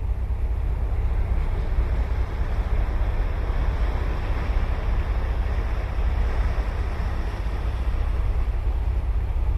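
Ocean surf breaking and washing up the beach, the wash swelling in the middle, over a steady low rumble of wind on the microphone.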